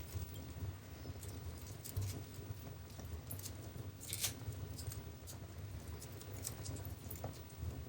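Wood fire burning in a fireplace: a low steady rumble of the flames with scattered crackles and small pops, one sharper pop about four seconds in.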